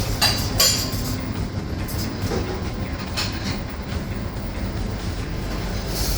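Steady low rumble of busy-room background noise, with a couple of sharp clicks about half a second in.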